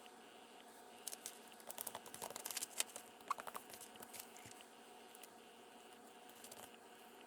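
Faint paper crinkling and rustling, a cluster of short crackles lasting about three seconds, as paper is handled during a book cover repair.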